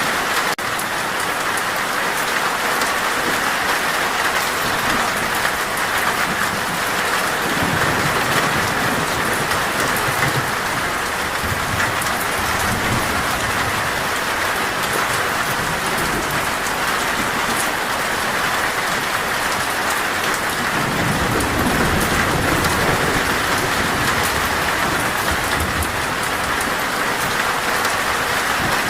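Heavy rain falling steadily on a metal roof, a dense even patter, with low thunder rumbling twice: from about a quarter of the way in and again a little past two thirds.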